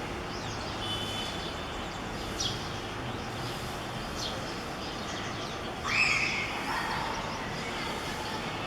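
Outdoor ambience with a steady background hiss, broken a few times by short, high bird chirps that drop in pitch. About six seconds in comes a louder call about a second long that slides down in pitch, the loudest sound here.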